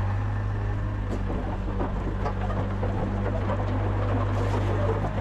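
Compact excavator's diesel engine running steadily at an even pitch, with a few light clanks over it.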